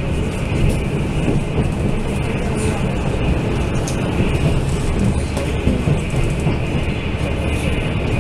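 Steady running noise of a Fu-Hsing express passenger coach at speed, heard from inside: a dense rumble of wheels and bogies on the rails, with a few faint clicks.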